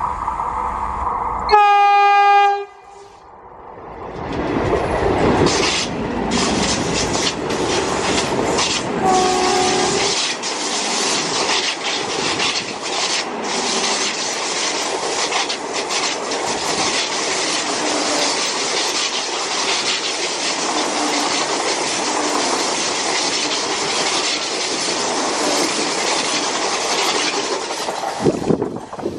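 Vande Bharat Express train sounds one loud horn blast about two seconds in and a brief, fainter horn note near nine seconds, then runs past close by for about twenty seconds: a steady rush of wheels on rail with many sharp clicks.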